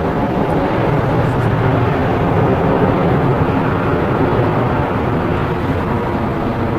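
Aircraft engines running as a steady, loud noise with a faint steady whine in it.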